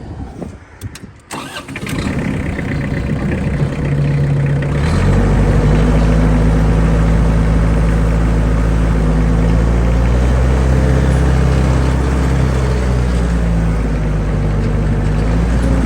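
Challenger MT285B diesel tractor engine being started: a click about a second in, a few seconds of the engine turning over, then it catches about five seconds in and settles into a steady idle.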